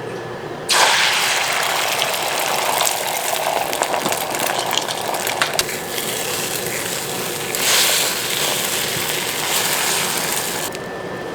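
Water gushing from a kitchen tap, turned on suddenly just under a second in and shut off near the end, with a few knocks of things under the stream.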